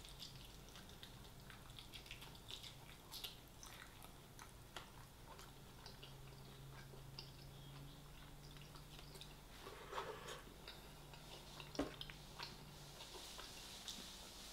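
Faint chewing of KFC fried chicken: scattered small wet clicks and crackles from the mouth, a few a little louder about ten and twelve seconds in, over a low steady hum.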